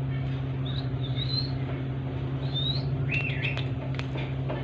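A few faint, short, high bird chirps and one stronger short whistled call a little past three seconds in, with a few light clicks near the end, over a steady low hum.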